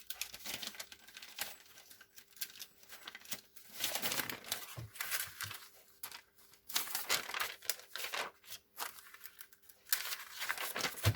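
Sheets of paper rustling and crinkling as they are handled, in irregular bursts, with a couple of soft knocks.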